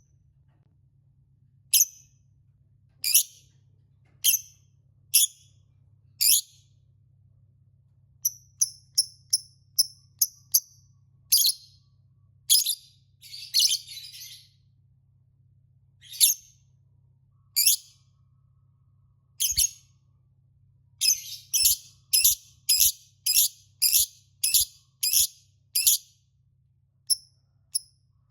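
Lovebird giving short, high-pitched chirps, some singly a second or more apart and some in quick runs, with one harsher, chattering burst near the middle.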